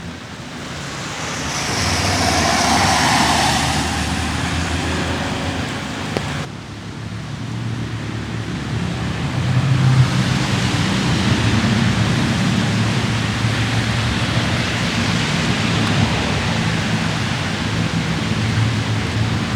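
A car passing on a wet road, its tyre hiss swelling and fading over the first few seconds, then a steady hiss of light rain and road traffic with a low rumble.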